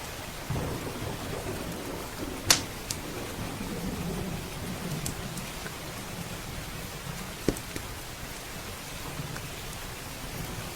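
Steady heavy rain with a low roll of thunder that swells about half a second in and fades over the next few seconds. A wood fire crackles over it, with sharp pops, the loudest about two and a half seconds in and another about seven and a half seconds in.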